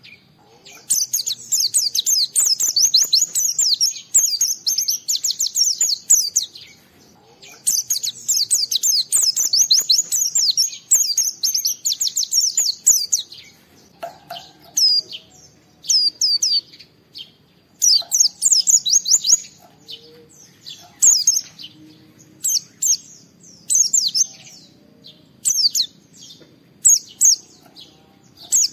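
White-eye (pleci) singing vigorously in rapid, high chirping notes. Two long unbroken runs fill the first half, then the song breaks into short bursts of a few notes each.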